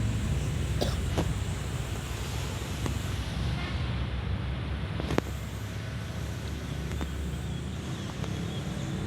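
Steady low rumble of road traffic, with a few faint clicks and one sharper click about five seconds in.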